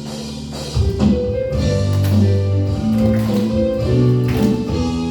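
Church praise band playing: held chords, then the full band with drums and bass comes in strongly about a second in and carries on with a steady beat.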